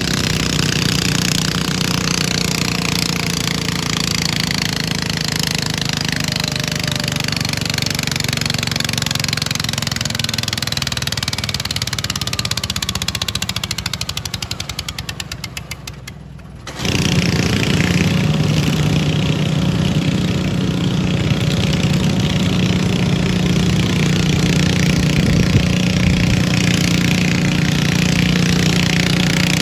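Garden pulling tractor engine running hard and steady. About two-thirds of the way through it fades over a few seconds into fast, regular pulsing, then a loud engine sound cuts back in abruptly and runs steadily.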